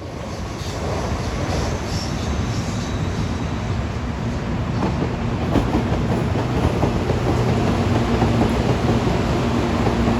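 Passenger train running on the rails: steady wheel-and-track noise with a low hum, joined by a higher steady tone about halfway through.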